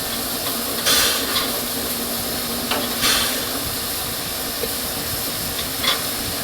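Narrow-gauge steam locomotive hissing steam: a steady hiss with a faint hum beneath, two louder surges of steam about one and three seconds in, and a few short sharp clicks.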